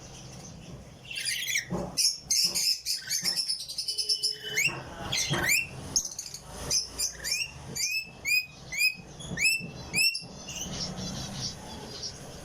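Sun conures calling: a busy stretch of overlapping chirps, then a run of short, upward-sweeping calls about two a second that stops about two-thirds of the way through.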